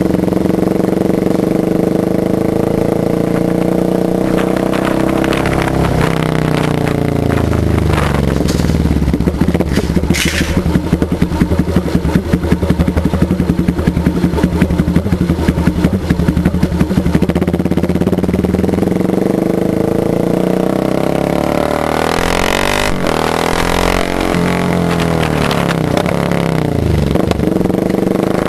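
Motorcycle engine running and being revved: the pitch rises and falls in several blips, settles into a quick, even pulsing idle for several seconds in the middle, then is revved up and down again near the end.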